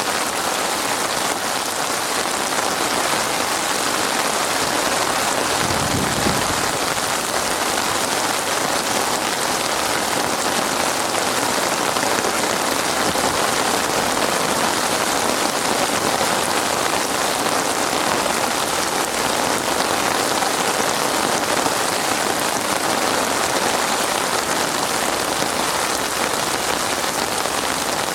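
Heavy rain falling steadily on a surface, a dense, even hiss of drops. There is a brief low thump about six seconds in.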